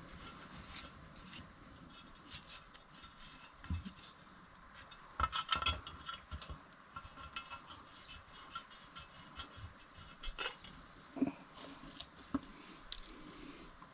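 Light metallic clinks, taps and scrapes of hand tools and bolts against metal as a cover is fitted back on, with a cluster of louder clanks about five to six seconds in.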